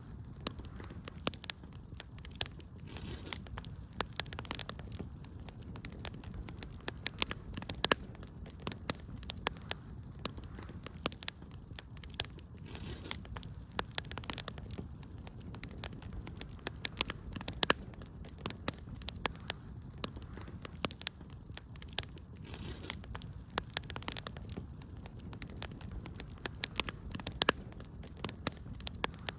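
Wood fire burning in a fireplace, with frequent sharp, irregular crackles and pops over a low steady rumble of flames.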